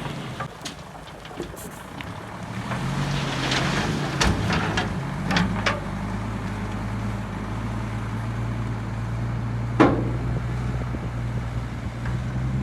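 Heavy diesel engine of earthmoving machinery running steadily and picking up load about two to three seconds in, with a few sharp metallic knocks, the loudest near the end.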